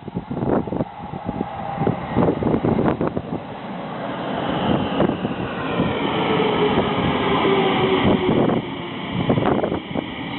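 Electric train running on rails, with clattering knocks and a high whine that rises in pitch from about four seconds in.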